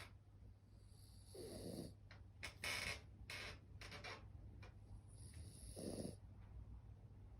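French bulldog snoring in her sleep: two drawn-out snores about four seconds apart, with a few short, sharp breaths between them.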